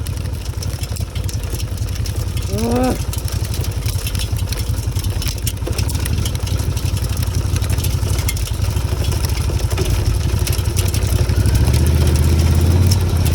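Motorcycle engine running under way, with wind noise and a dense ticking of hail striking the bike and rider; the engine note grows louder near the end.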